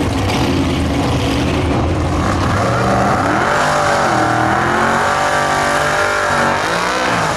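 Drag-racing car engine at full throttle, its pitch dropping and climbing again several times, as happens when it shifts up through the gears.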